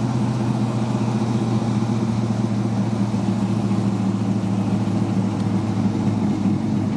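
A car engine running steadily at an even, low pitch.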